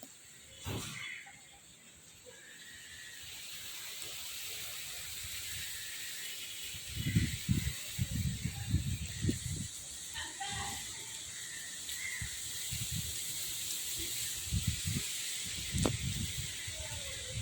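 Steady high-pitched outdoor hiss, with clusters of low rumbling thumps from about seven seconds in and again near the end.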